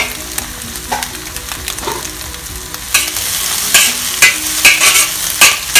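Scrambled eggs frying in hot oil in a wok, sizzling steadily, with a metal spatula scraping and knocking against the wok several times in the last few seconds as the eggs are stirred.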